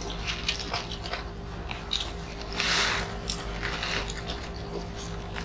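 Close-up eating sounds of people chewing grilled chicken and rice by hand: wet chewing and lip smacks in quick short clicks, with one louder hissing, slurp-like burst about two and a half seconds in, over a faint steady hum.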